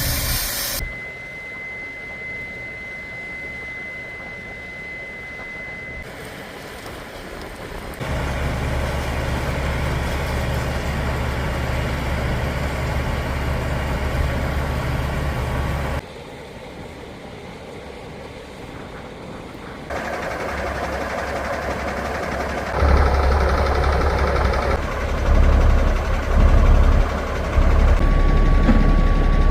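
Heavy farm and transport vehicle engines running, heard in a string of short segments that change abruptly every few seconds. A steady high tone sounds over part of it, from about a second in to about six seconds, and another near the end.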